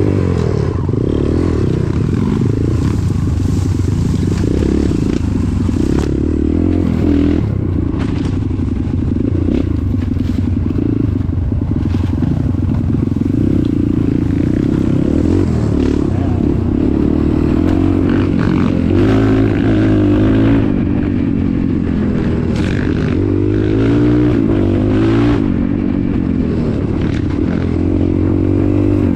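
Vehicle engine running steadily under varying load, with repeated clattering and scraping knocks over rough ground.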